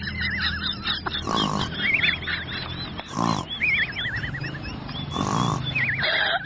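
An animal's high, wavering cries, broken by three short, louder, harsher calls about two seconds apart.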